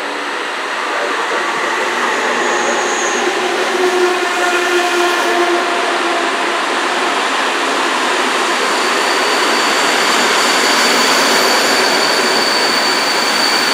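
Electric locomotive-hauled passenger train passing close by on the track: a steady rolling rush of wheels on rail that grows louder over the first couple of seconds, with a pitched whine as the locomotive goes by. Past the middle, a high steady squeal from the wheels sets in as the coaches roll past.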